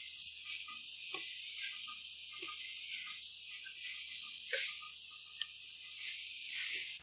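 Okra and tomato masala frying in ghee in a metal pan, a steady soft sizzle, with a few light knocks and scrapes of a spatula stirring through it.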